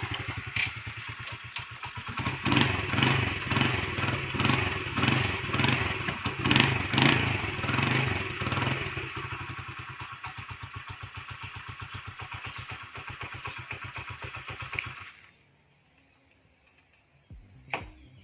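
Honda Benly CD90's single-cylinder four-stroke engine running after restoration, blipped up in several short revs, then settling to an even idle before it is switched off about fifteen seconds in.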